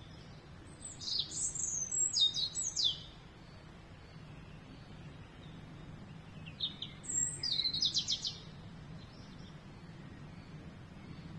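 A songbird singing two short phrases of quick, high, descending notes, the first about a second in and the second about midway, over a faint steady low background.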